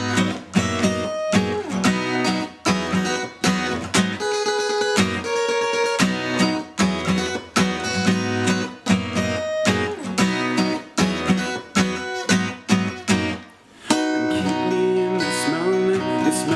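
Acoustic guitar strummed in a steady rhythm in an instrumental break of a song. About three-quarters of the way through the strumming drops out briefly, then comes back fuller and steadier.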